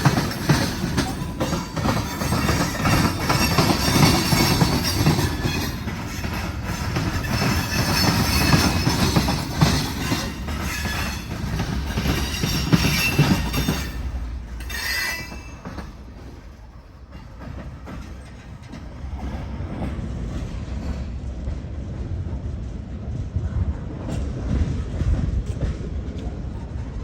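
Freight train cars, mostly tank cars, rolling past on jointed track, with wheels clicking and squealing. About fifteen seconds in the sound falls away sharply, leaving a lower, steadier rumble.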